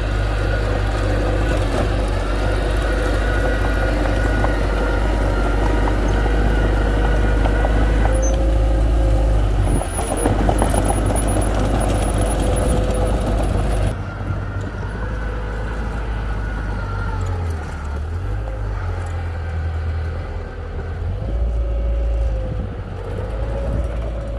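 Heavy diesel machinery running loud and steady, a deep rumble with a whine over it; about fourteen seconds in the sound drops quieter, and it rises in pitch briefly near the end.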